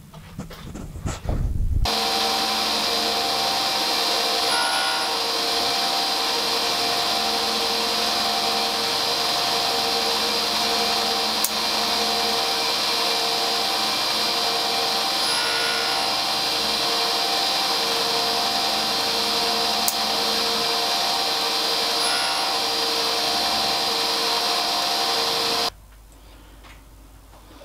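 Tool and cutter grinder started up and running steadily with a high, even whine, grinding a tooth of a gear-cutting tool, then switched off and stopping suddenly near the end.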